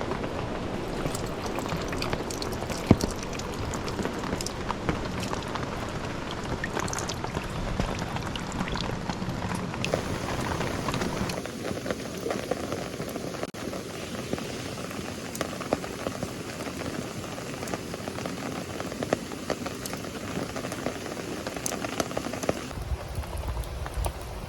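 Steady rain falling, with many sharp drop ticks through it; the sound changes character about halfway through and again near the end.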